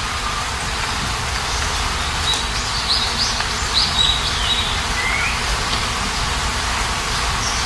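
Steady rain hiss with small birds chirping over it: quick clusters of high chirps in the middle and a short rising call about five seconds in.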